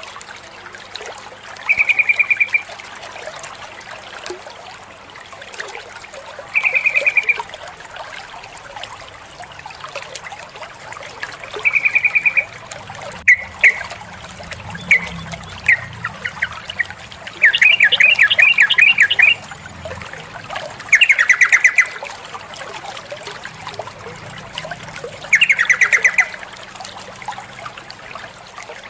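Female yellow-vented bulbul (trucukan) calling: short, even calls every few seconds, then quick rattling chatters near the middle and end. Steady trickling water runs behind.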